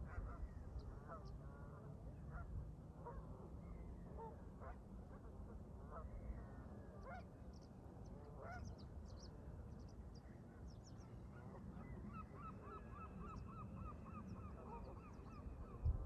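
Canada geese honking, with short calls scattered throughout. In the second half a rapid, even run of repeated bird notes joins in.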